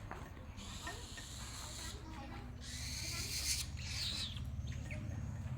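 Bird of prey giving a short, high, falling call about four seconds in, after two stretches of hissing noise.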